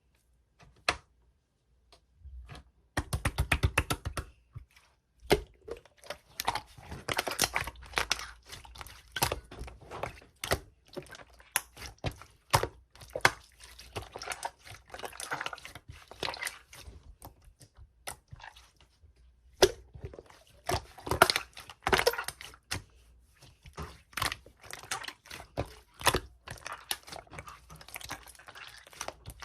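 Slime being squished and pressed by hand, giving irregular runs of small wet clicks and pops, the first few seconds almost quiet before the squishing picks up.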